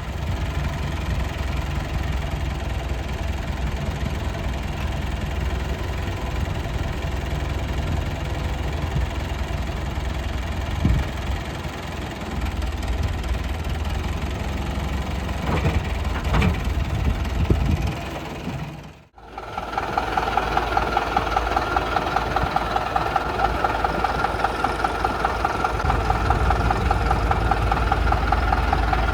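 Diesel engines of an excavator and a tractor running while mud is loaded, with a few brief squeals and scrapes about two-thirds of the way through. After a sudden break, a diesel engine idles with an even beat of about three pulses a second.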